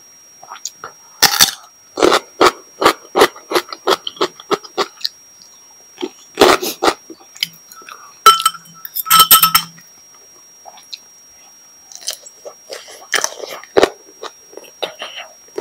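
Close-miked chewing and crunching of food, a run of wet strokes about three a second. Between about 8 and 10 seconds a metal fork and spoon clink against a glass bowl with short ringing tones.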